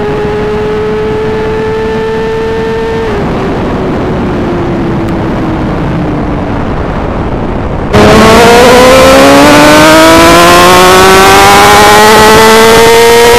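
BMW S1000RR inline-four running under way: at first a steady note that creeps upward, then the throttle closes about three seconds in and the note sinks as the bike slows. About eight seconds in the sound jumps much louder, with a heavy rush of noise, as the engine pulls hard and its pitch climbs steadily.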